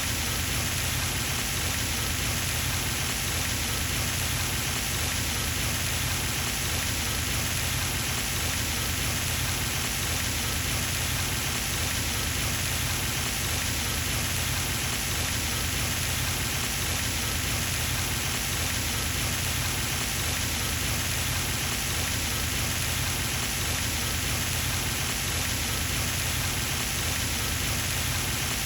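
Pond fountain's spray falling back onto the water surface: a steady, even splashing hiss like rain.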